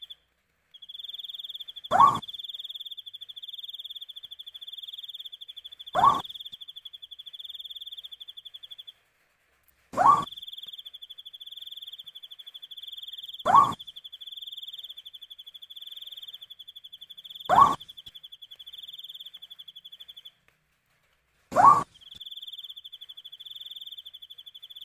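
An owl giving a short call that rises in pitch, six times about every four seconds, over a steady rapid cricket trill that breaks off twice.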